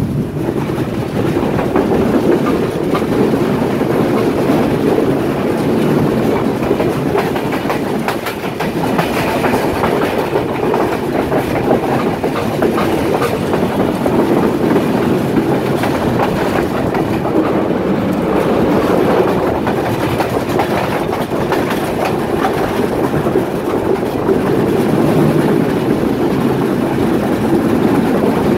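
A train running along the track: a steady rumble of wheels on rail, with many short clicks throughout.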